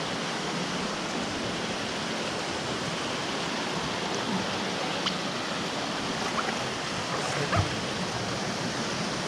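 Steady rush of flowing water in a rocky gorge, with a few small knocks in the second half.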